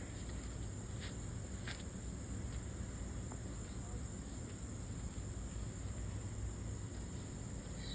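Steady high-pitched insect chorus running without a break, over a low rumble, with two faint clicks about one and two seconds in.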